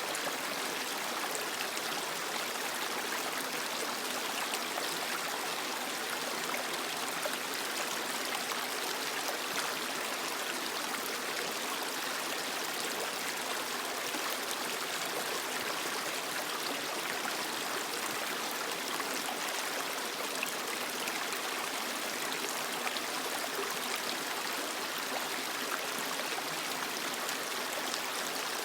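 Creek water flowing steadily over rocks: an even, unbroken rush with a bright, splashy top and little low rumble.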